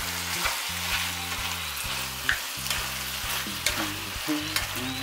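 Onion, radish and bacon in gochujang sauce sizzling steadily in a frying pan while a wooden spatula stirs and scrapes through them, with a few short clacks of the spatula against the pan.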